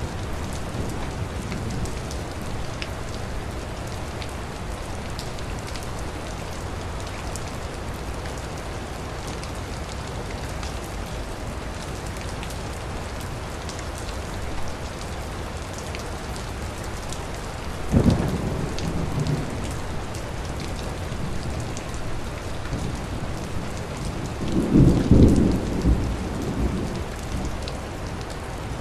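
Steady rain falling during a thunderstorm. A sudden sharp crack of thunder comes about two-thirds of the way in, and a longer, louder roll of thunder a few seconds before the end.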